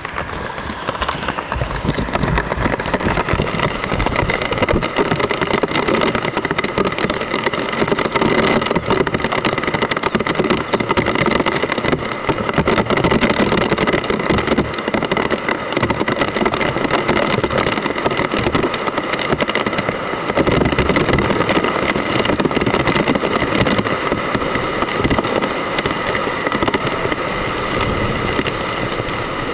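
Heavy typhoon rain falling in strong wind, a dense crackling patter of drops that swells and eases with the gusts.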